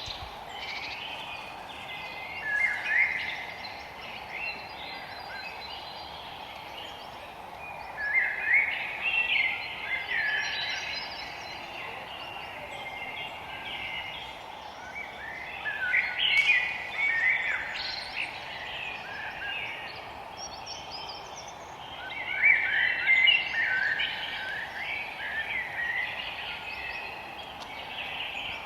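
Wild songbirds singing in a forest, several birds overlapping in chirping, warbling phrases, with four louder spells of song over a steady background hiss.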